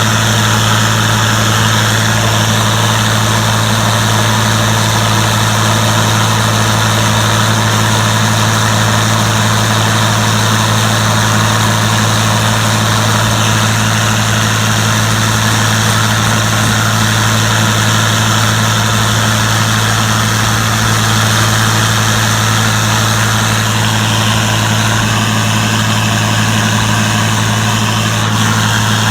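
Gleaner combine running steadily, a constant deep engine hum that holds one pitch throughout.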